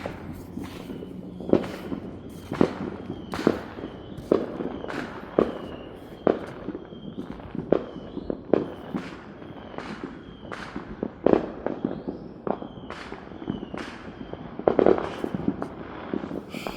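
Consumer fireworks and firecrackers going off all around in an irregular stream of bangs and pops, about one or two a second, some louder and nearer than others.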